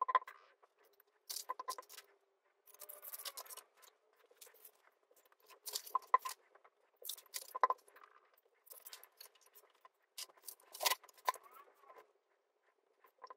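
Paper cut-outs and small craft tools being handled on a work surface: scattered soft clicks, taps and paper rustles.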